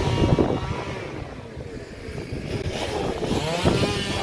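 Gusty wind buffeting the microphone, an uneven low rumble that rises and falls.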